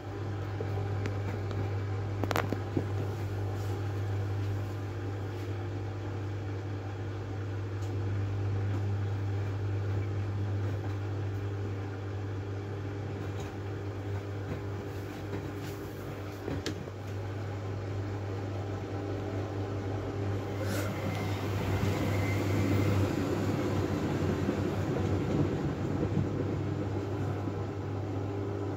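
Miele W433S washing machine running with a steady low hum and a few sharp clicks.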